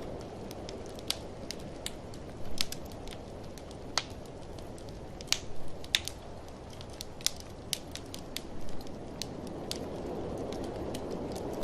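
Wood fire crackling in a fireplace, with sharp, irregular pops and snaps, over a steady low rushing of blizzard wind that swells near the end.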